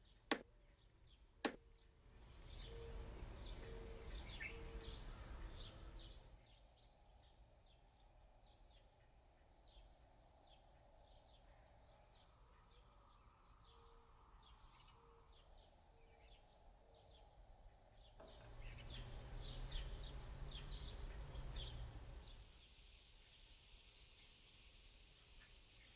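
Near silence with faint bird chirps all through. Two sharp clicks sound in the first two seconds, and a soft rushing noise swells up twice for a few seconds.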